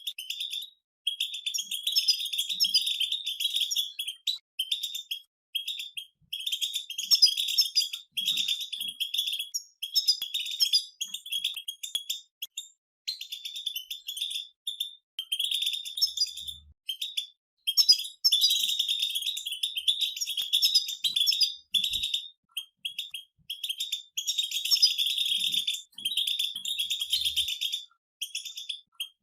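Several European goldfinches singing together: fast, jingling twittering in phrases of a second or two, broken by short pauses.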